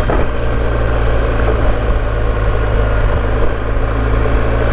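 BMW R1250GS boxer-twin engine running at a steady low speed while the bike rides along a light gravel track, a constant low drone with a noisy haze of tyre and wind noise over it.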